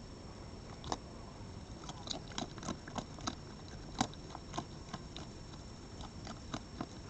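An animal chewing and crunching food at the feeding spot: a string of irregular sharp crunches, the loudest about four seconds in.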